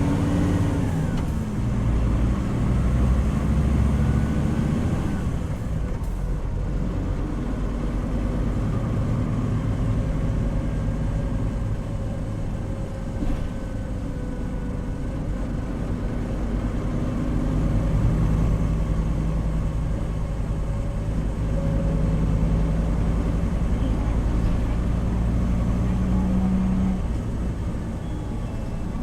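Hino Rainbow HR (PB-HR7JHAE) route bus under way, heard on board: its diesel engine pulling with road rumble, the engine note climbing in the first few seconds and breaking off about five seconds in, then running steadily before easing off near the end.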